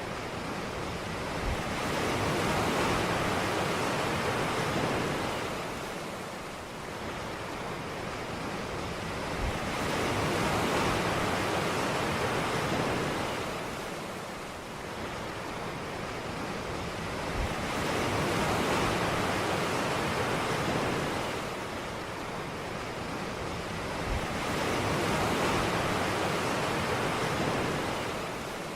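Ocean surf on a beach: waves break and wash in slow swells, about one every seven to eight seconds, with a steady hiss of water between them.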